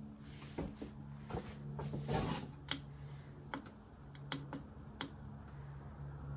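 Irregular light clicks of buttons being pressed on a diesel heater's control panel, with a brief rustle about two seconds in, over a steady low hum.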